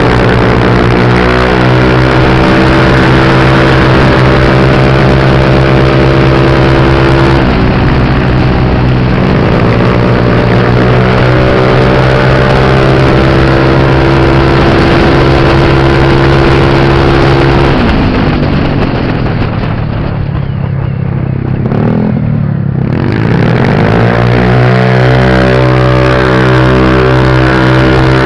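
Motorbike engine under throttle, recorded close to the machine: its pitch climbs and then holds level for several seconds at a time, dipping briefly and recovering. About two-thirds of the way through the throttle eases, the engine note falls and quietens, then it climbs again and holds steady near the end.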